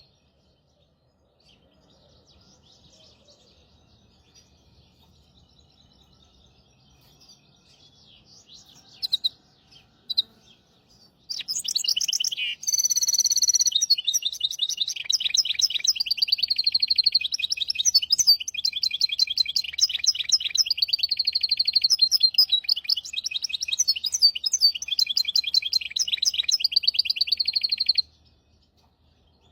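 Hybrid (mule) finch, a goldfinch–canary cross, singing. Faint scattered twitters and a couple of louder calls come first, then a long, fast, continuous trilling song of about seventeen seconds that stops abruptly near the end. It is a tutor song for training young goldfinches and canaries.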